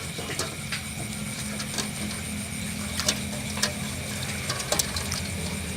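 Steady low machine hum with irregular light clicks and taps, like small metal parts being handled.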